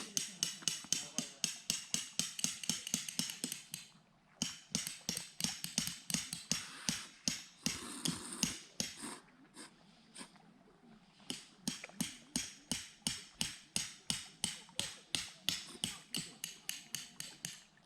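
Rapid, regular hammer blows, about three a second, with a brief pause about four seconds in and a stretch of fainter, sparser hits around ten seconds.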